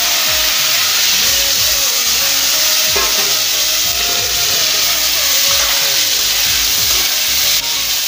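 Chopped onions and tomatoes sizzling loudly in hot oil in a kadai, just after being added to the pan, a steady hiss that holds at an even level.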